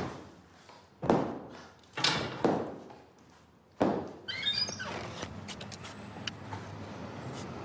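Heavy blows against a wall, as if someone is hammering into it: four thuds at about one, two, two and a half and four seconds in, each ringing out briefly. A short falling squeak follows the last blow.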